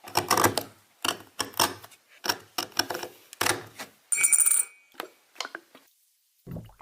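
Metal clinking and scraping: a run of short ringing hits, then a brief steady high-pitched whir about four seconds in, then a few fainter clinks.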